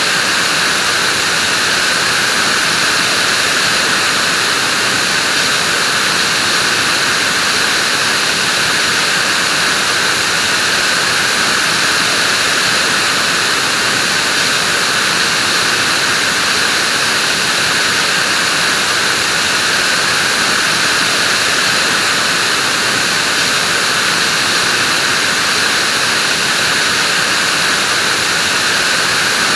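Vacuum cleaner running steadily, a loud, constant whooshing hiss that does not change.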